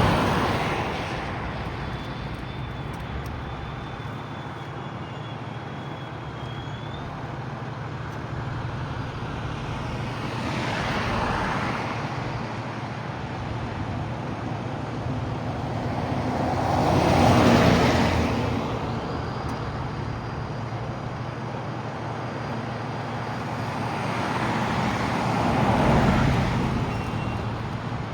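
Heavy road traffic: a steady hiss of tyres and engines, with vehicles swelling louder as they pass, about 11, 17 and 26 seconds in, the one near 17 seconds the loudest.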